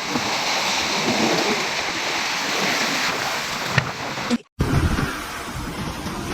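Typhoon wind and rain: a steady hiss of driving rain and rushing water. After an abrupt cut about four and a half seconds in, lower, rumbling wind noise follows.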